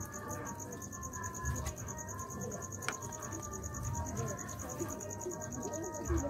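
Cricket chirping steadily in a rapid, even pulse train.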